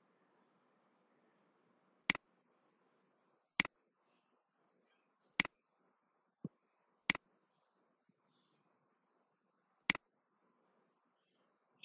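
Computer mouse clicks: five sharp single clicks, spaced about one and a half to three seconds apart, with a fainter dull knock between the third and fourth.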